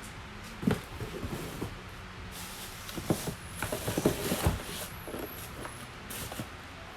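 Handling noises of tools and packaging being moved about: a single knock about a second in, then a cluster of clattering knocks and rustles about three to four and a half seconds in.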